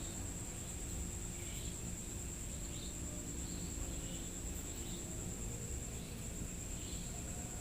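Night insects: a steady high-pitched trill, with scattered fainter chirps over a low rumble of background noise.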